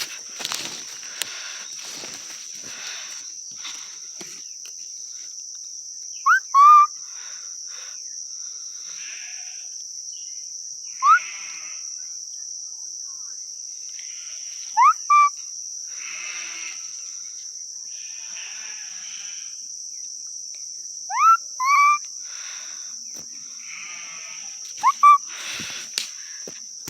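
Crickets chirping steadily in a continuous high trill. Over them, short, sharp rising squeaks sound about four times, mostly in quick pairs, louder than the crickets.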